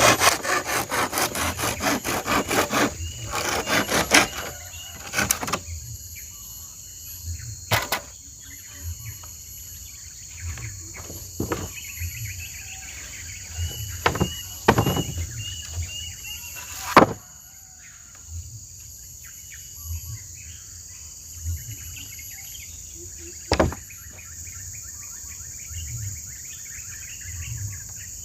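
Hand saw cutting wood with quick, even strokes for about the first three seconds, then a scattered series of knocks and taps on wood. A steady high drone of crickets and other insects runs underneath.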